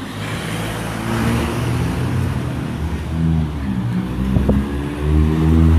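A motor vehicle's engine running close by, a low rumble that grows louder toward the end.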